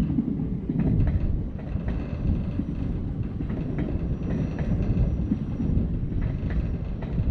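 Passenger multiple-unit train passing beneath, a steady low rumble with scattered clicks of the wheels over the rail joints. A faint high whine comes in around the middle.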